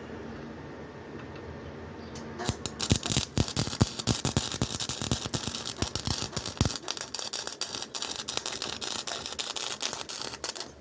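Welding arc crackling and sputtering as a bead is laid on a pocket bike's foot peg mount: a dense, irregular spatter of sharp crackles that starts about two seconds in and cuts off suddenly at the end. A steady low hum sits under it before the arc strikes.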